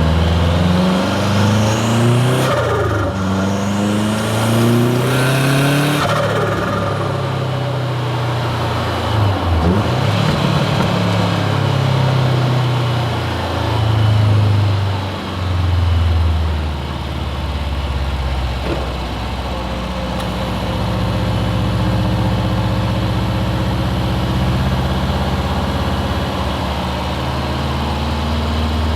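Turbocharged Subaru WRX STi flat-four accelerating hard through the gears: the engine note climbs and drops back at each shift, with bursts of hiss as the revs peak. About halfway through it settles into a steady low drone.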